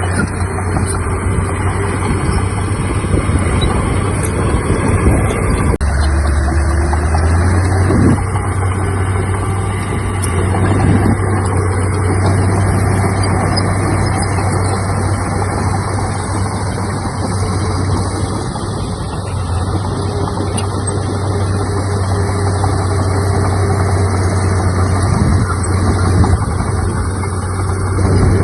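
Heavy diesel engine of earthmoving machinery running steadily with a deep hum; its note drops lower for about two seconds, roughly six seconds in.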